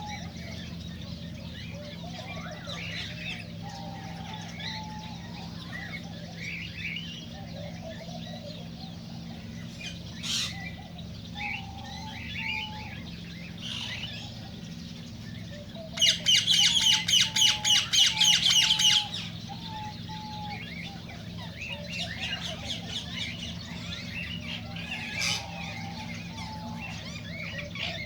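Cockatiels chirping and whistling, with a loud run of rapid, harsh squawks starting about 16 seconds in and lasting about three seconds. A steady low hum runs underneath.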